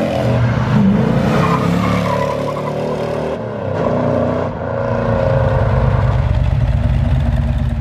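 Car engine revving, its pitch rising and falling, then holding a strong, steady low drone for the last few seconds.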